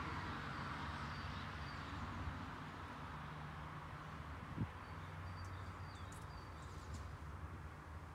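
Small birds chirping in short high calls, more often in the second half, over a steady low hum, with a single thump about halfway through.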